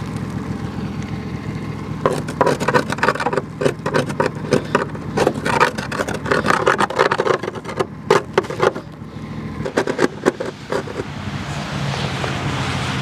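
Metal parts and tools clinking, knocking and scraping as small lawn-tractor drivetrain parts are handled, in a rapid irregular run of clicks that dies away near the end, over a steady low hum.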